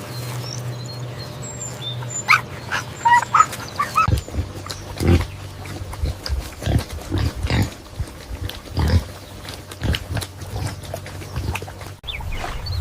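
Animal calls: a few high chirps, then from about four seconds in a run of short, low grunt-like calls at irregular intervals.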